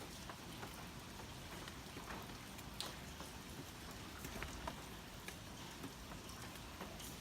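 Typhoon rain and wind: a steady hiss of rain with scattered sharp ticks and taps of drops striking a nearby surface.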